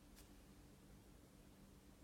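Near silence: a faint steady low hum, with one soft click just after the start.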